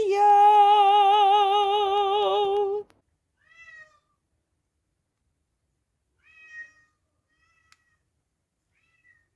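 Cat meowing: one long, drawn-out wavering meow lasting about three seconds, then a few faint short meows.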